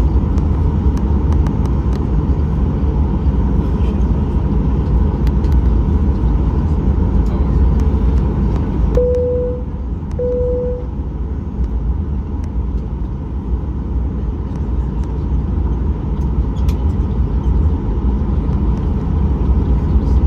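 Steady low engine rumble heard inside the cabin of a Boeing 737-800, from a seat beside the engine. About nine seconds in, two short cabin chimes of the same pitch sound a little over a second apart.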